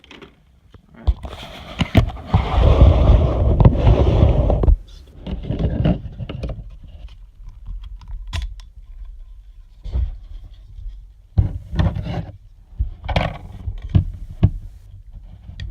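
Packaging being handled while parts of a diecast model airliner are unpacked. About a second in there is a loud run of rustling and scraping that lasts some four seconds, then scattered clicks and light knocks.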